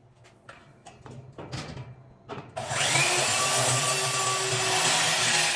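A few light knocks of handling, then about two and a half seconds in a portable band saw starts and runs steadily, cutting through thin galvanized steel tubing.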